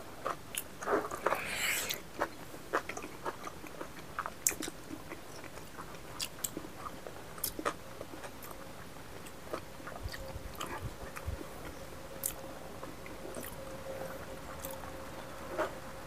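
Mouth sounds of people eating: chewing with scattered wet smacks and clicks, busiest in the first few seconds and sparser after.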